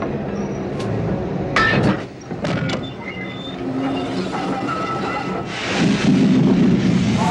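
Railway wagons rolling on the track with a steady low rumble. A few sharp metallic clanks come about one and a half to three seconds in, and a louder rush of noise comes near the end.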